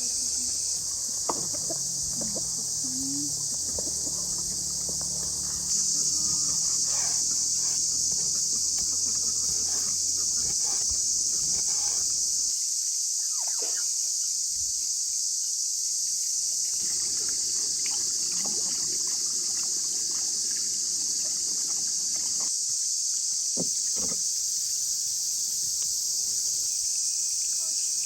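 A steady, high-pitched chorus of insects chirring that grows a little louder about six seconds in, with faint scattered knocks and rustles underneath.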